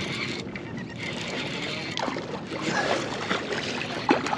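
Water splashing and sloshing around a kayak, with a few sharp knocks, the loudest near the end.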